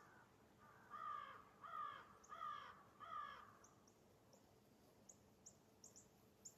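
A bird calling four times in a row, the calls evenly spaced about two-thirds of a second apart, followed by a run of faint, short, high chirps from a small bird in the second half.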